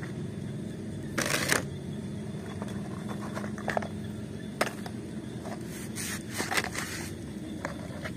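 Mud-coated plastic toys handled and picked up off a wooden board by hand, giving a few short scrapes and clicks over a steady low hum.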